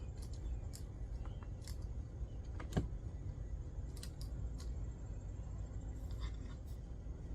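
Light metallic clinks and rattles of a new chainsaw chain being handled, with one sharper click about three seconds in.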